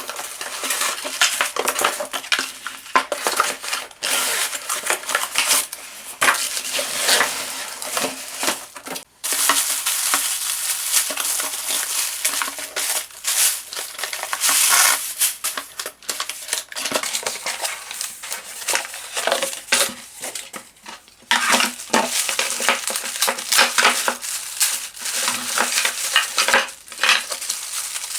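Unboxing a vacuum cleaner by hand: cardboard and plastic packaging rustling and crinkling, with irregular clicks and clatter as hard plastic parts are handled and set down.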